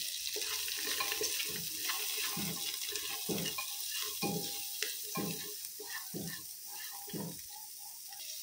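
Peas and whole spices sizzling in hot ghee in a pressure cooker, stirred with a black slotted spatula that scrapes across the pot base in regular strokes about once a second.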